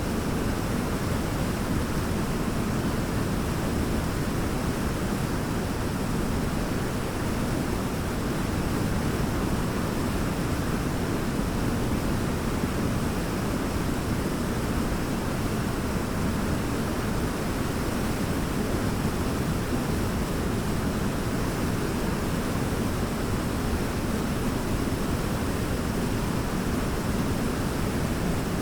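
Large waterfall pouring steadily: a constant, deep rushing of falling water, strongest in the low end, with no change in level.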